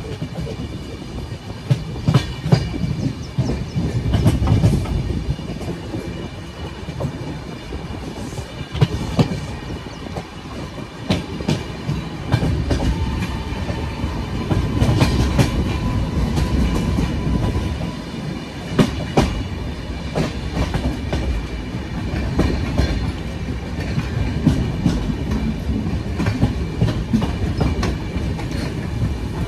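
Running noise of a passenger train heard from inside the moving coach: a steady low rumble with wheels clacking irregularly over rail joints and points as it runs into a station.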